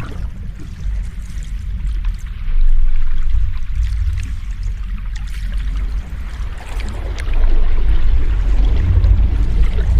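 Ocean waves washing and rumbling, with a deep low rumble under a fainter hiss of water. The surf swells louder twice, about two and a half seconds in and again about seven seconds in.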